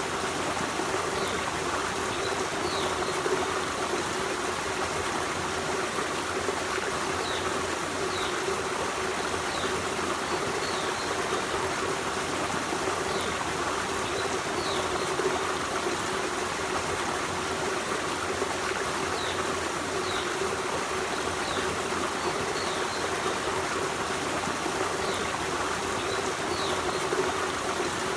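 Forest stream running, a steady rush of flowing water with faint short high chirps every second or two.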